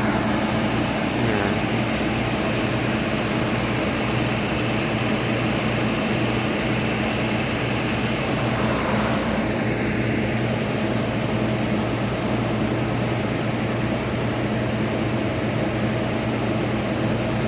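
Bus engine idling: a steady low drone with an even hum.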